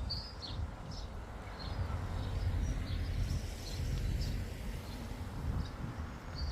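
Outdoor ambience: a low, uneven rumble that swells a little in the middle, with faint scattered bird chirps over it.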